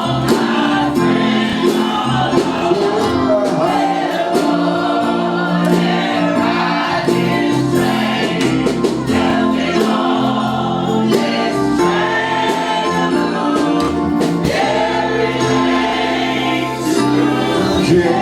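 Choir and congregation singing a gospel song over sustained instrumental chords, without pause.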